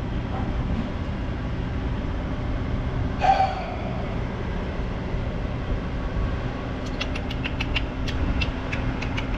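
Semi truck's diesel engine idling steadily, with a short sharp clank about three seconds in and a run of quick clicks, about five a second, near the end.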